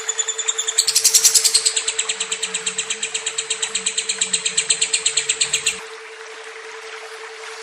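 Lovebird singing a fast, unbroken run of high chirps, several a second, that stops abruptly about six seconds in. A steady low hum runs underneath.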